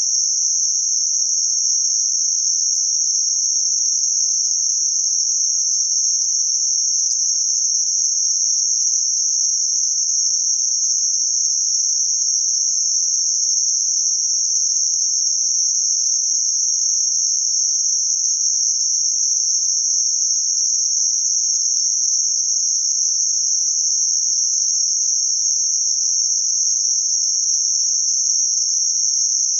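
Synthetic band-limited noise centred around 6051 Hz: a steady, high-pitched hiss in a narrow band, with no change.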